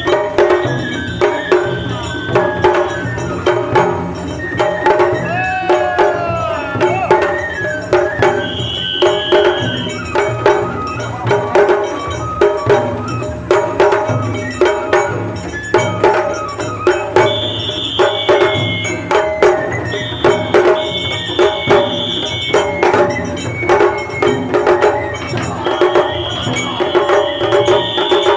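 Japanese festival music (matsuri-bayashi): drums and clanging percussion beat a fast, steady rhythm. A high flute melody drops in and out over it, sliding in pitch about five seconds in.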